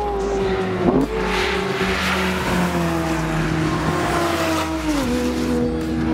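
Track-prepared 2014 Volkswagen Gol 1.6 with a sport air filter and a fully reworked exhaust, driving on a race track. Its engine note holds steady, sags slowly, then drops in pitch about five seconds in.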